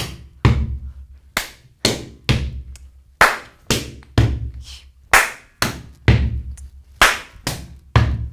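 Gumboot dance rhythm: hand claps, slaps on rubber boots and boot stomps on a platform in an even pattern of about two strikes a second, the stomps landing with a deep thud.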